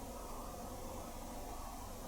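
Miele Little Giant PWM 507 commercial washing machine in the main wash of a woollens 30 °C program: a steady low machine and water sound from the drum, with no sudden knocks.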